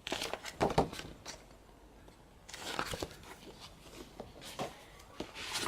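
Paper and plastic rustling and light handling clicks, in scattered short bursts, as the album's photo book and inserts are handled.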